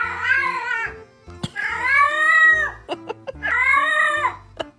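A domestic cat meowing three times, each meow long and drawn out, rising and then falling in pitch.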